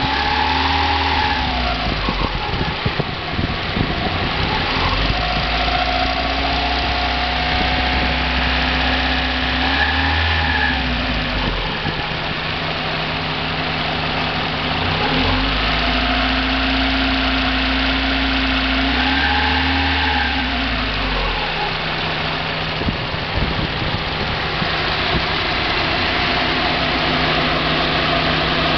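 1990 Mazda Miata's 1.6-litre four-cylinder engine idling and blipped up and down about five times, then settling to a steady idle near the end. Under it runs a rattle present at idle that the owner cannot place: hydraulic lifter tick, rod knock or a spun bearing, and not pinging, since it stays on 93-octane fuel.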